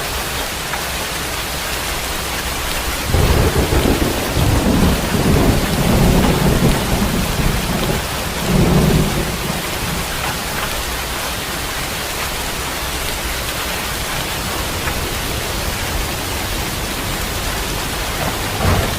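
Steady heavy rain hissing, with a roll of thunder that breaks in suddenly about three seconds in, rumbles for some six seconds, swells once more and dies back into the rain. Another rumble begins right at the end.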